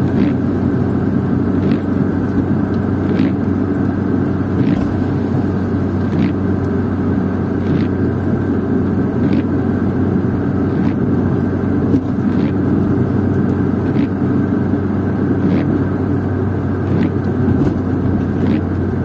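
Steady in-cabin car noise while driving on a wet road: engine and tyre rumble, with a short sweep-tick about every one and a half seconds from the windscreen wipers running in the rain.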